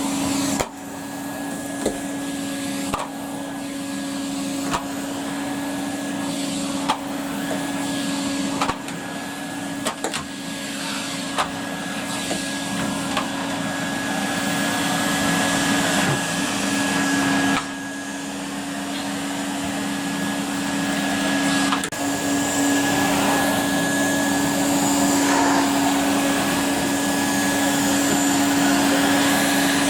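Numatic Hetty tub vacuum cleaner running steadily as it vacuums carpet, a constant motor hum and suction hiss, with occasional sharp knocks as the floor tool is pushed about.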